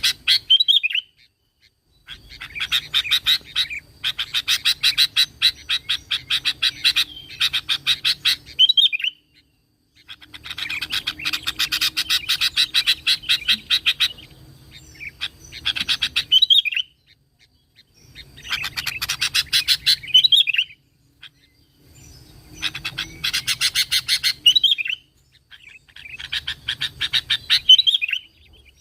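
Sooty-headed bulbul (kutilang) singing in bouts of rapid, evenly repeated notes. Each bout often ends in a short warbled flourish, with pauses of a second or two between bouts.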